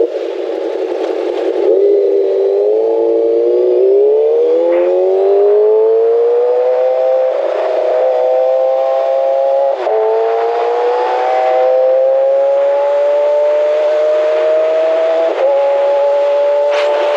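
Kawasaki ZX6R inline-four sportbike engine accelerating, its pitch climbing through the gears and dropping back briefly at upshifts about ten and fifteen seconds in. At the start there is wind noise. The sound is thin, with no low end.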